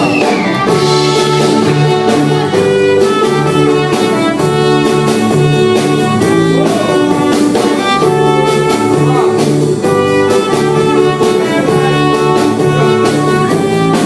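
A live band plays an instrumental passage of a pop-rock song with no singing. A drum kit keeps a steady beat under sustained melodic instrument lines.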